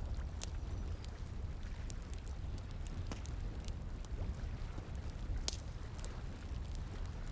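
Campfire crackling with scattered sharp pops over the steady rush of flowing water, one pop louder than the rest about five and a half seconds in.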